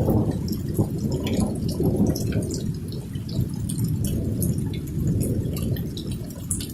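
Thunder rolling on after a nearby strike, a long low rumble that eases off near the end, with rainwater dripping.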